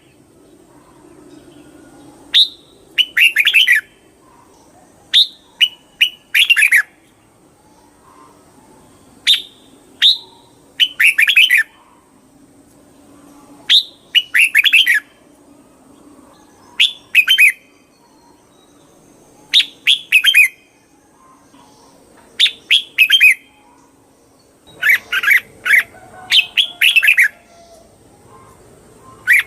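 Red-whiskered bulbul singing: short, bright, chirpy phrases about a second long, repeated every two to three seconds.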